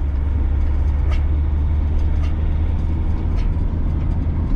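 Steady low road-and-engine drone heard inside a moving motorhome's cab.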